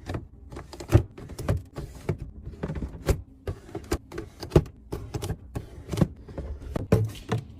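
Containers and food items being handled and set down while a refrigerator is arranged: irregular clicks, clunks and plastic knocks, a few a second, with short scrapes between them.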